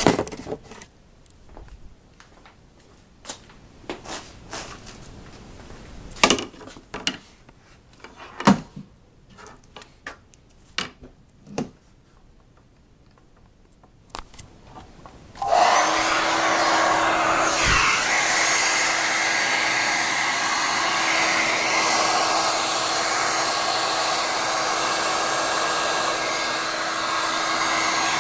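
A few seconds of scattered handling clicks and knocks, then a little past halfway a hair dryer is switched on and runs steadily: a rush of blown air with a steady hum under it.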